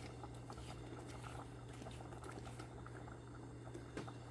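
Faint handling noise of a plastic trigger sprayer being twisted on a spray bottle to unscrew it, small scattered ticks with one sharper click about four seconds in. A steady low electrical hum runs underneath.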